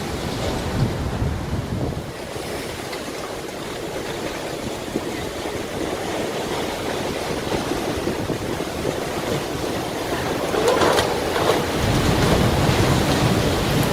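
Surging water, a steady rushing noise that grows louder about ten seconds in, with a deep rumble joining near the end.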